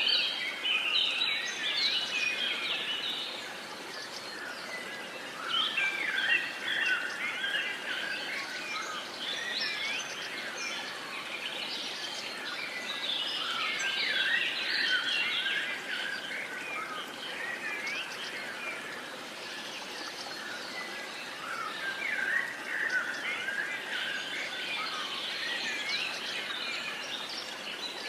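Dawn-chorus-style birdsong: many songbirds chirping and whistling at once over a steady, soft background hiss, busier in stretches with brief quieter spells.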